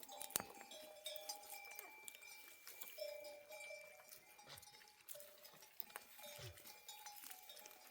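Bells on a flock of sheep clinking and ringing faintly as the animals move, several bell tones overlapping and ringing on, with small knocks between them.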